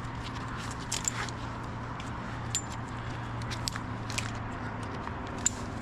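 Small metal climbing hardware clinking and rattling as it is handled, a scatter of short light clicks about a second apart, over a steady low hum.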